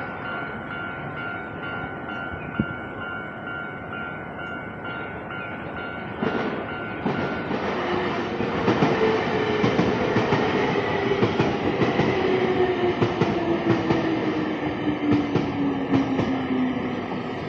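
Level crossing warning bell ringing steadily in an even, repeating pattern, then from about six seconds in a Nankai Koya Line train passes over the crossing: its wheels clack rapidly over the rail joints, and a motor whine falls steadily in pitch through the second half.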